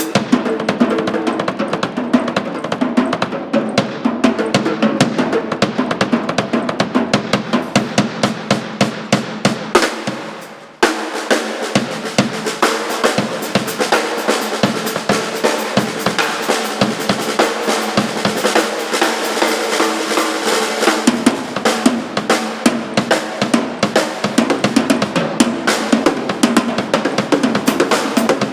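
Rock band rehearsing, the drum kit loudest, with busy snare and bass drum hits throughout. About ten seconds in the sound fades for a moment, then cuts back in sharply.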